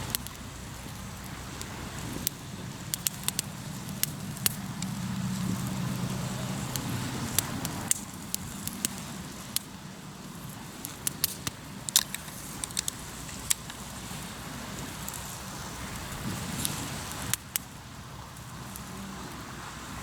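Hardwood campfire crackling, with irregular sharp pops throughout. A low engine-like hum runs underneath for the first several seconds, then fades.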